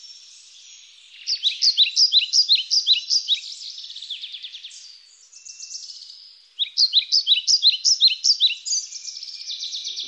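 A songbird singing two bouts of quick, repeated down-slurred notes, about four or five a second, with softer twittering between the bouts.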